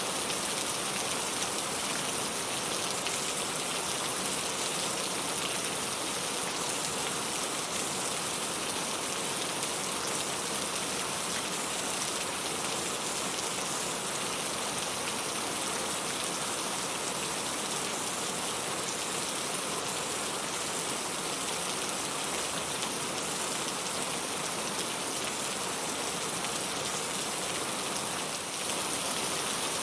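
Steady rain falling on a surface, an even hiss of many drops with no let-up.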